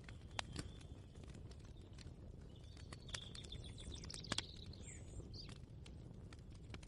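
Ambient kitchen soundscape: a steady low rumble with scattered light clicks and knocks, and a short run of chirping, bird-like calls about midway.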